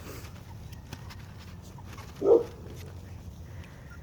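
A puppy gives one short bark a little past two seconds in, with faint scattered clicks in the background.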